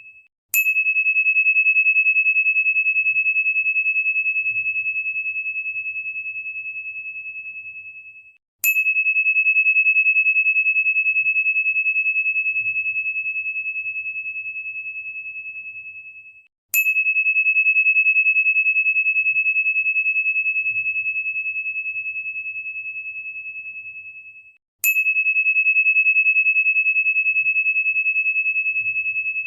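A single high, pure chime-like tone, struck four times about every eight seconds; each strike begins with a sharp tick, rings steadily and slowly fades, then cuts off just before the next strike.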